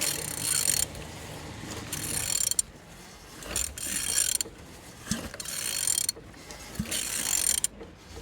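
Ratchet wrench turning an Opel Z16XE1 engine's crankshaft over by hand, in about six strokes of rapid clicking with short pauses between. The engine turns over freely, not seized.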